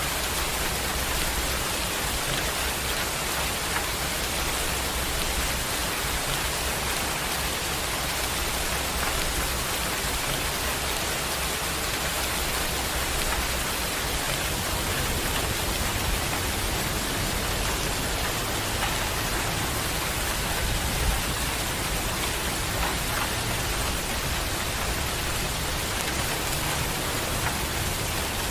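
Heavy rain pouring steadily, an even hiss with a few louder taps standing out.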